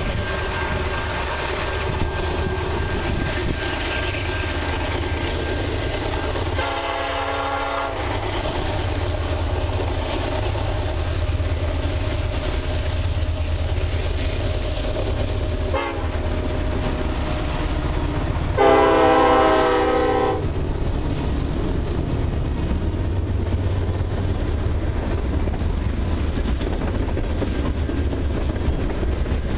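Freight train approaching behind diesel locomotives with a steady low engine rumble, sounding its horn twice: a short blast about 7 s in and a longer, louder one about 19 s in for the crossing. The lead units then pass and the freight cars roll by with a clickety-clack of wheels over the rail joints.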